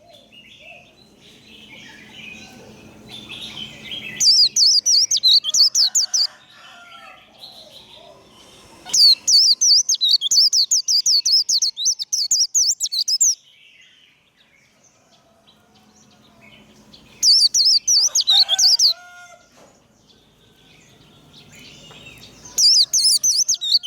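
White-eye (vành khuyên) singing its rapid, high-pitched twittering 'líu' song in four bursts of two to four seconds each, with quieter gaps between.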